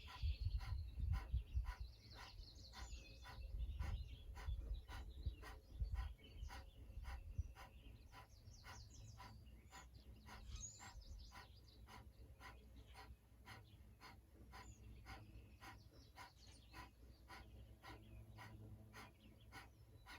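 Kapalabhati breathing: rapid, forceful exhales pumped out through the nose at about two a second, each a short sharp puff, with passive inhales between. A low rumble sits under the first several seconds.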